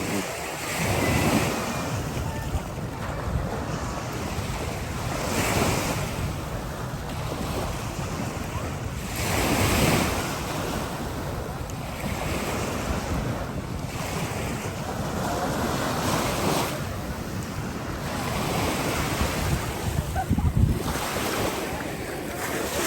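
Waves breaking and washing up on a sandy beach, surging every few seconds, with wind buffeting the microphone.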